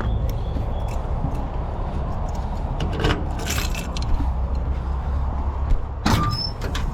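Keys jangling, with a few sharp metal clicks around the middle and near the end, as the excavator's battery disconnect and door lock are worked. Under it, a steady low engine rumble.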